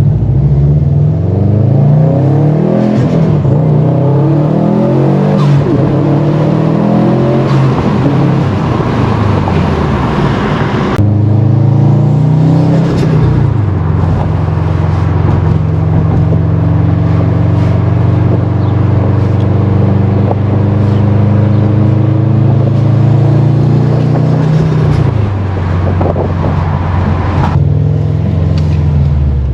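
Subaru WRX STI's tuned, turbocharged flat-four engine pulling hard through the gears, its pitch climbing and dropping back at each shift. After an abrupt break it settles into a steady cruise, then the pitch falls as the throttle eases off near the end.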